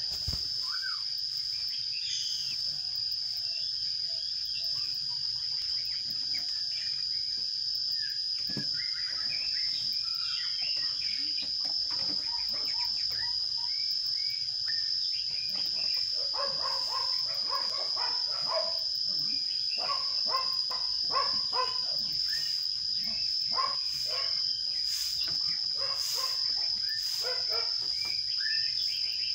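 A steady, high-pitched insect trill runs throughout. Over it, sparrows chirp in quick runs of short calls that grow busier about a third of the way in.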